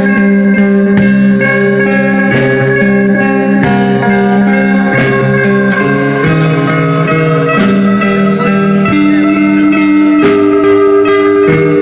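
Live rock band playing loud: long held guitar notes that change pitch every second or two over a steady drum beat.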